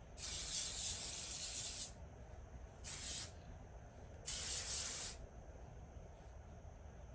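Fine-mist pump spray bottle of heat protectant spritzing three times: a long spray of about two seconds, a short one about three seconds in, and another of about a second a little later.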